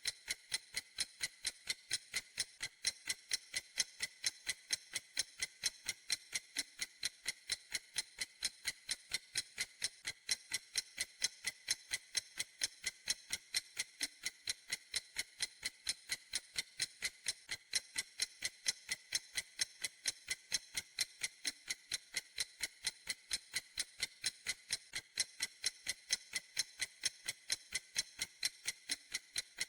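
Clock ticking steadily: crisp, even, high-pitched ticks at about three a second.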